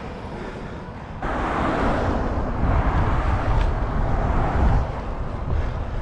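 Wind rumbling on the microphone during a road bike ride, with a louder rush of road noise setting in suddenly about a second in and easing near the end.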